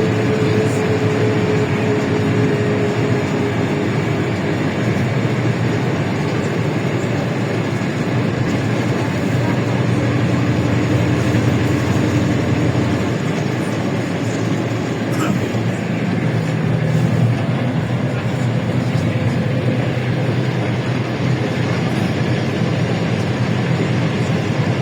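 Cabin noise of a LiAZ-677M bus on the move: its V8 petrol engine running under steady road noise. The engine's pitch drifts slowly as the speed changes.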